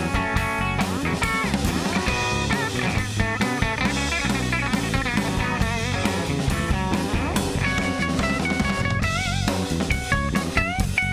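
Blues band playing an instrumental break, with a guitar lead of bent, wavering notes over a steady drum kit beat.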